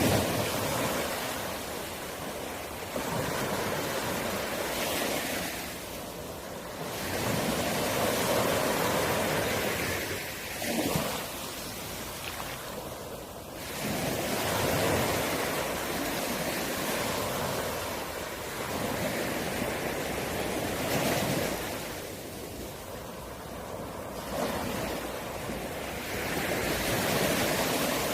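East Sea surf: waves breaking and washing on the shore, the rush of water swelling and falling back in surges about every six seconds.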